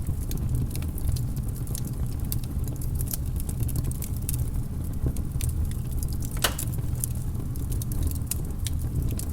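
Wood fire in a fireplace crackling, with frequent small pops over a steady low rumble and one sharper pop about six and a half seconds in.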